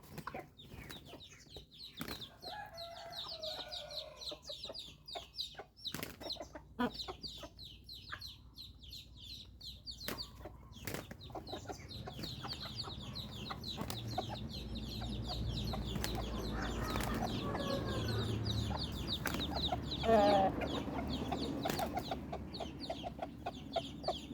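Newly hatched chicks peeping in quick, high, continuous runs, mixed with lower clucking calls, the loudest about twenty seconds in, and scattered sharp taps.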